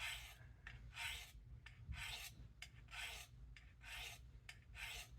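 Steel knife blade drawn over ceramic sharpening rods, faint hissing strokes about once a second: the sharpened swedge (false edge) of a Case USMC knife being honed.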